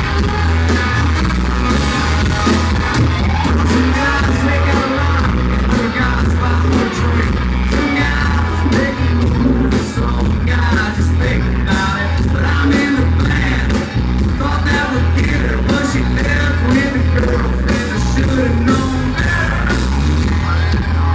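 Live country-rock band playing loud, with drums, heavy bass and a lead vocal, in a poor, distorted amateur recording.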